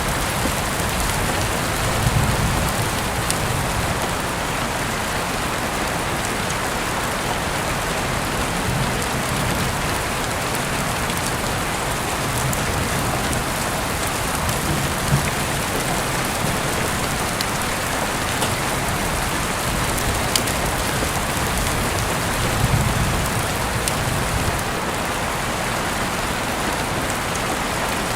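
Heavy rain falling steadily, a dense even hiss with the crisp ticks of single drops hitting close surfaces scattered through it.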